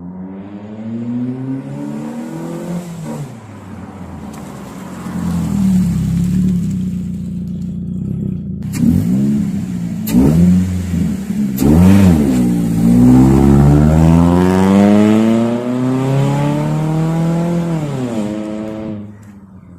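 A car engine revving through its exhaust: the pitch rises and falls several times, with quick sharp blips near the middle and a longer rev held high before it drops back near the end.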